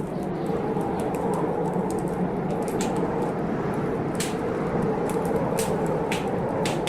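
Wood fire crackling, with sharp pops about every second, over a steady low rush of a storm.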